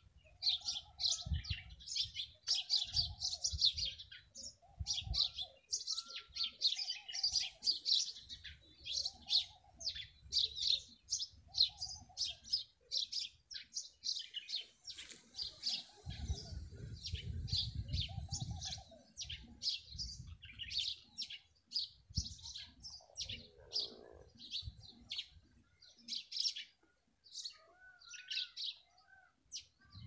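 Songbirds chirping in quick, dense, high-pitched notes throughout, with a lower call repeating about once a second through much of the first half. Low rumbling bumps come and go underneath, heaviest just past the middle.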